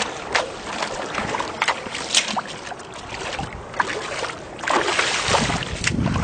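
Water splashing and sloshing in irregular splashes, heavier about five seconds in.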